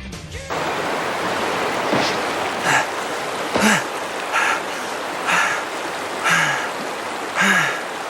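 Steady rush of falling water, with a man gasping hard for breath about once a second, short panting breaths of exhaustion.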